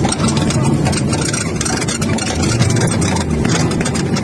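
A motor vehicle's engine running steadily under a loud, even rush of noise.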